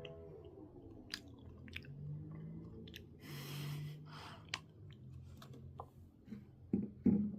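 A person chewing food close to the microphone, with wet mouth clicks and small crunches. A short rustling hiss comes about three seconds in, and a few sharper knocks near the end.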